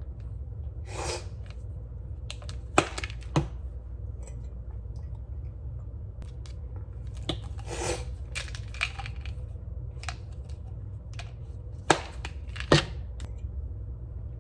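Scattered small clicks and knocks with a few short rustles, as of objects being handled, over a steady low hum; the sharpest knocks come near the end.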